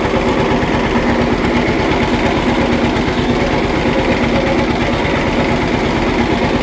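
Model B tractor engine running steadily, its exhaust pulses coming in a fast, even beat. The engine is still untuned.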